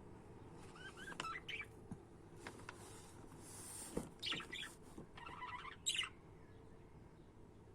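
Budgerigars chirping and chattering in short, scattered calls, loudest about four and six seconds in, over a steady low background noise.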